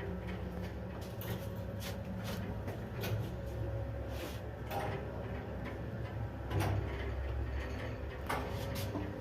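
1983 SamLZ passenger lift running: a steady low hum from the drive and cab, with short clicks and knocks every second or so.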